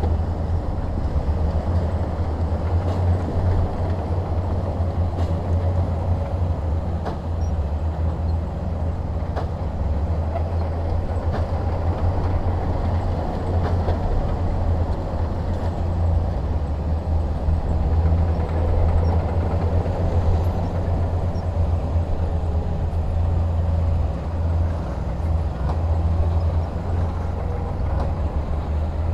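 Heavy diesel earthmoving machinery running steadily, a deep even engine drone with a few faint clicks.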